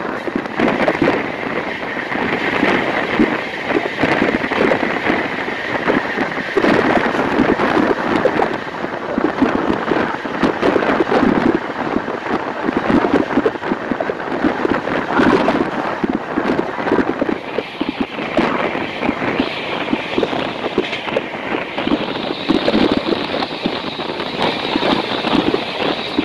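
Express passenger train running at speed, heard from the open coach doorway: a rush of wind over the microphone with the rapid clatter of the coach's wheels over the rails. A high steady whine runs through the first few seconds and a higher one comes in during the last eight or so.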